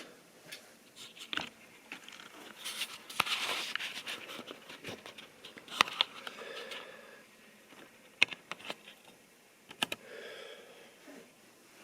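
Scattered light clicks, taps and brief rustles of small items being handled, with no motor running.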